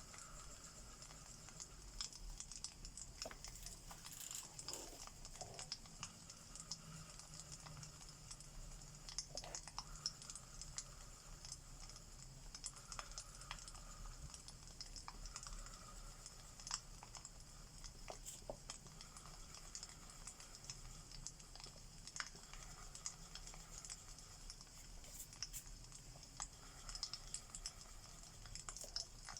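Faint wood fire crackling: irregular sharp pops and snaps over a steady hiss.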